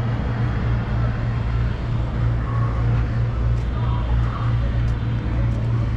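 River ferry's diesel engine running with a steady low drone, with a few faint clicks in the second half.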